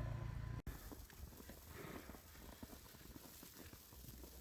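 A steady low hum cuts off abruptly under a second in, followed by footsteps crunching in snow: a quick, irregular run of soft crunches.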